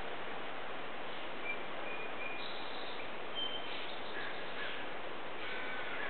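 Wild birds calling at dawn: short, clear high notes come and go from about a second and a half in, over a steady background hiss.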